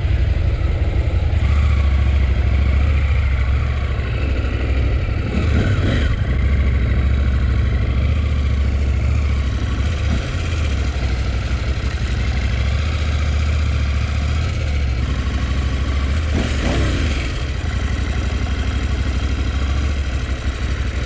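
Motorcycle engine running: a steady, deep, pulsing drone.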